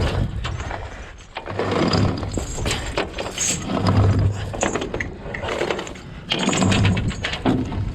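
Heavy mooring chain being hauled in by hand in repeated pulls, its links rattling and clanking in surges about every two seconds.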